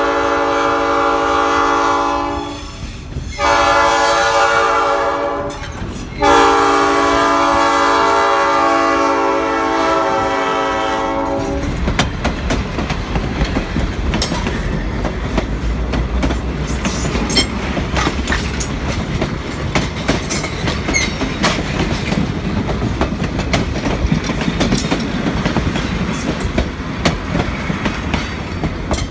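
Diesel locomotive's air horn sounding in three blasts, the last and longest cutting off about eleven and a half seconds in. Then the train's passenger coaches roll past close by: a steady wheel-on-rail rumble with a regular clickety-clack of wheels over rail joints.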